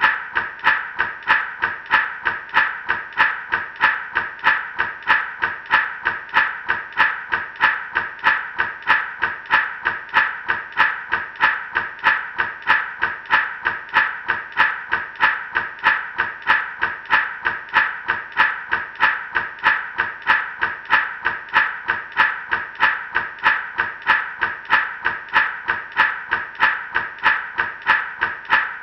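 Gourd rattle shaken in a steady, even rhythm of about three shakes a second, each shake a crisp rustle of seeds inside the dried gourd.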